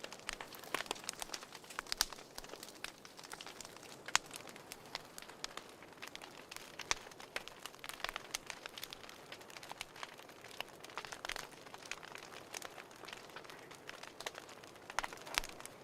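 Fireplace fire crackling: irregular sharp pops and snaps over a soft steady hiss.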